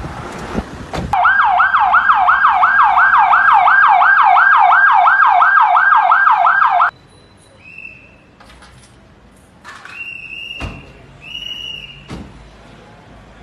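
Police car siren in a fast yelp, rising and falling about two and a half times a second for about six seconds, then cutting off suddenly. A few short, quieter high tones follow.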